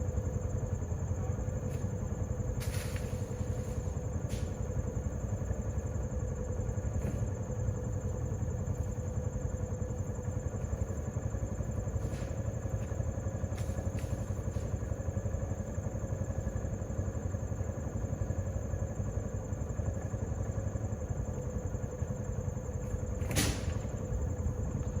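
Vehicle engine running steadily with a constant low rumble, with a few light clicks and one sharper knock near the end.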